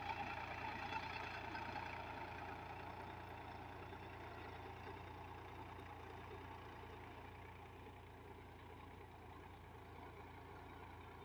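Sonalika Tiger DI 50 tractor's diesel engine running steadily, growing gradually fainter.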